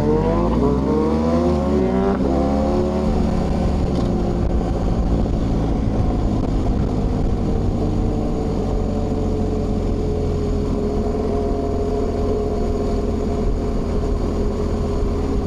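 Motorcycle engine accelerating, its pitch rising until a gear change about two seconds in, then running steadily at cruising speed, with wind rushing over the microphone.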